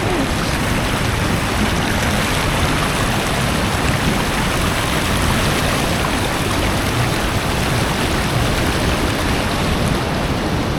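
Loud, steady rush of a waterfall heard up close, a constant roar of falling white water.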